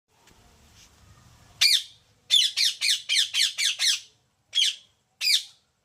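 A parrot calling: about ten short squawks, each sliding down in pitch, with one call, then a quick run of seven, then two spaced-out calls near the end.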